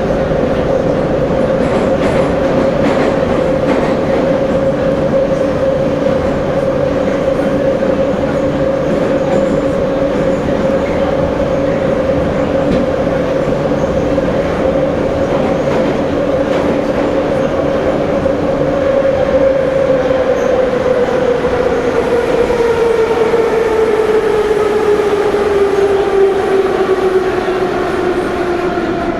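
Metro train heard from inside a car while running, with a steady rumble and a strong, even whine from the traction motors. In the last third the whine slides steadily down in pitch as the train slows.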